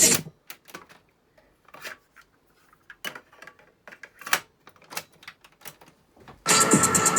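Music from a Panasonic RX-FT590 boombox cuts off. Then comes a run of irregular sharp clicks from its controls being worked. Loud electronic music starts again near the end.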